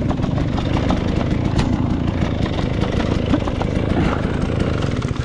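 KTM enduro motorcycle engine running steadily at low revs, with a few light knocks, then dropping away sharply at the very end.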